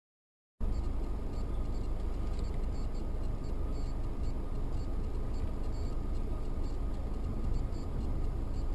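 Steady low rumble of a car driving, its road and engine noise, starting suddenly about half a second in.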